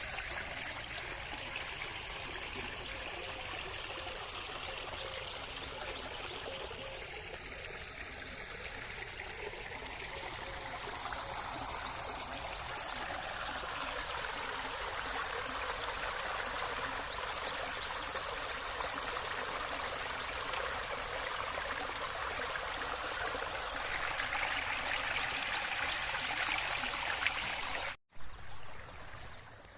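Water flowing steadily, like a small stream or monsoon runoff trickling, with a faint steady high tone above it. The sound cuts off suddenly near the end, leaving something much quieter.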